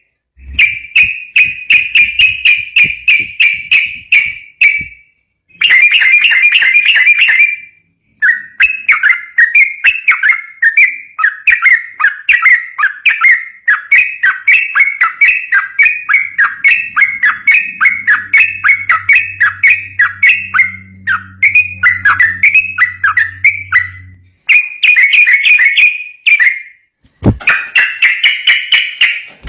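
Yellow-vented bulbul (trucukan) singing its rapid rolling 'ropel' song: fast runs of bright repeated chirping notes in phrases of a few seconds, broken by short pauses.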